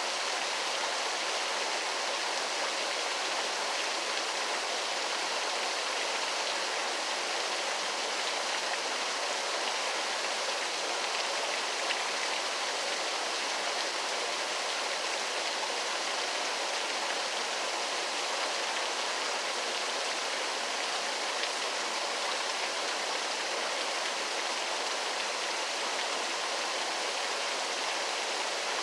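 Waterfall: a steady, unchanging rush of falling water, mostly a hiss with little deep rumble.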